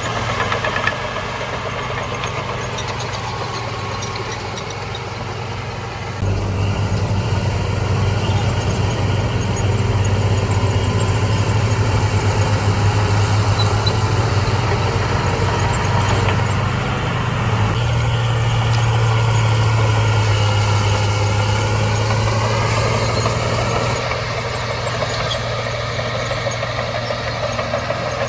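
Heavy diesel engine of an earthmoving machine running. It gets louder about six seconds in, rises in pitch shortly before the end, then drops back to a lower level.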